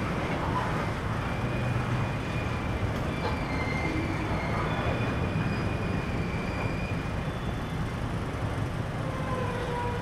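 A freight train of covered hoppers rolling through a street grade crossing, a steady rumble heard from a car waiting in traffic, with faint high-pitched squeals coming and going. A steady tone comes in near the end.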